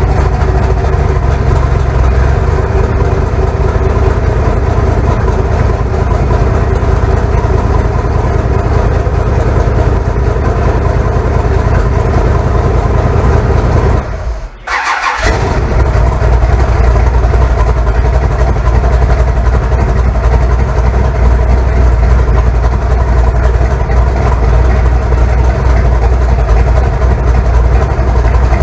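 Big-block Chevy V8 engine running steadily and loudly, broken by a brief drop-out of about a second roughly halfway through.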